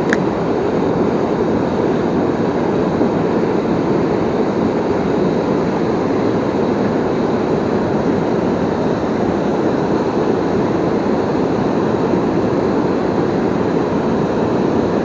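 Waterfall and rushing river water, a steady, loud, even roar of falling water.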